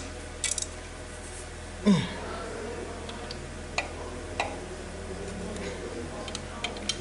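Metal transmission parts and hand tools being handled on a workbench: scattered light clicks and clinks, with one louder scrape that falls in pitch about two seconds in, over a steady low hum.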